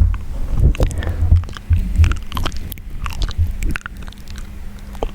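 Close-miked wet mouth sounds: irregular clicks and smacks, with a low rumble under them for the first few seconds.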